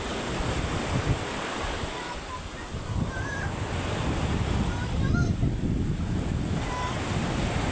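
Surf breaking on the shore in rough pre-typhoon weather, with strong wind buffeting the microphone in a heavy, uneven rumble. A few faint short chirps sound over it.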